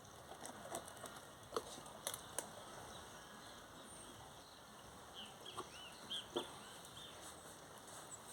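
Faint scattered clicks and light knocks of gate-motor parts being handled and fitted during reassembly, with a few short bird chirps about five to six seconds in.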